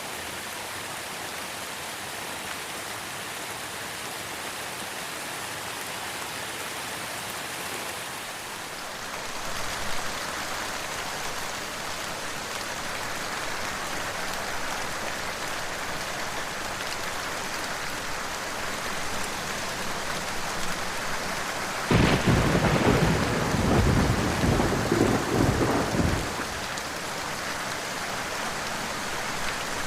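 Steady rain falling, with a loud roll of thunder rumbling for about four seconds near the end.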